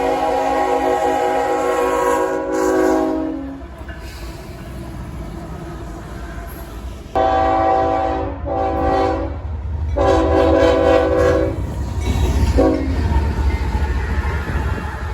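CSX freight locomotive's multi-tone air horn sounding in several blasts: one blast ending a few seconds in, then two shorter blasts, a longer one and a brief toot. The low rumble of the passing train grows louder from about halfway through.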